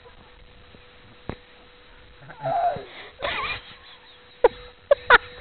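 A person's short breathy vocal sounds, sniffs and gasps, in a few separate bursts, with a single click about a second in.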